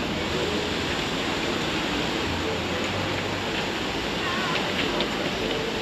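Busy theme-park walkway ambience: a steady rushing wash of noise with the indistinct chatter of a crowd of guests, a few voices briefly standing out near the end.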